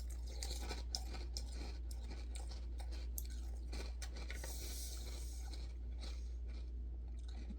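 A mouthful of crunchy cereal in milk being chewed close to the microphone, a run of small crunches and crackles, over a steady low hum.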